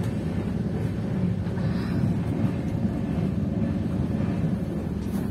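Steady low rumble of a moving passenger train, with no distinct knocks or horn.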